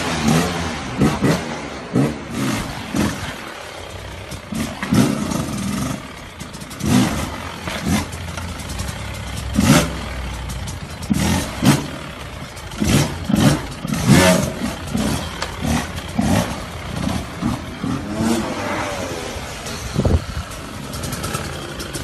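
Motorcycle engines revving with rising and falling pitch, broken by many short, sudden loud hits and knocks.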